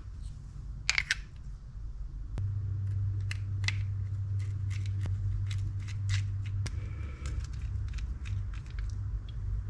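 Small sharp clicks and taps of fishing-reel parts being handled and fitted by hand during reassembly, over a low steady hum.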